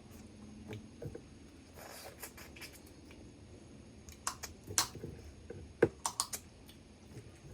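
Mud crab shell being cracked and picked apart by hand while eating: a run of sharp clicks and cracks in the second half, the loudest a little before six seconds in, over quiet handling and eating noise.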